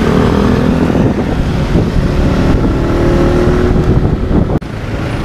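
Motorcycle running in traffic, heard as steady engine drone and heavy wind noise on the rider's microphone. The sound drops out for an instant about four and a half seconds in.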